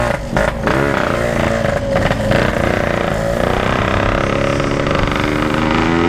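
Two-stroke motorcycle engine revving briefly, then running steadily with its pitch slowly rising, as when pulling away.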